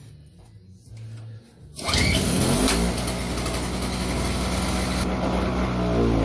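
The 5 hp two-stroke engine of a Toro CCR2500 snowblower catches on a pull about two seconds in and keeps running loudly. Its speed rises and falls near the end. It has just come back to life after a carburetor cleaning, with oil loaded in the carburetor and muffler.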